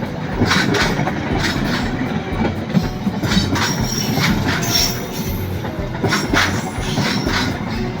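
Train running on track: wheels clacking over rail joints at an irregular beat, with a faint high wheel squeal around the middle.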